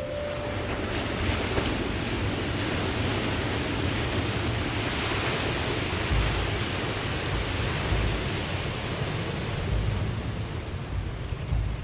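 Waterfall rushing as a steady, even hiss, with a few low thumps of wind buffeting the microphone in the second half.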